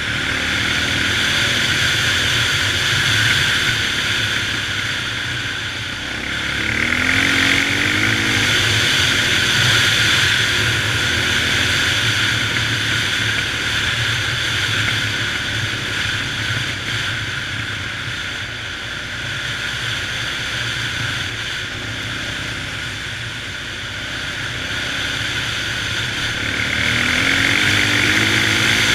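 Honda XR650R single-cylinder four-stroke dirt bike engine running under way, over a steady rush of wind noise. The engine note rises as the bike accelerates about seven seconds in, and again near the end.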